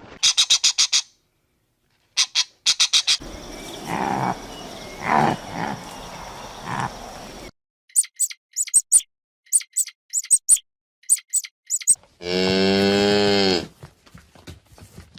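A cow mooing once, a long, deep call near the end. Before it come a few short runs of rapid, high-pitched chirps.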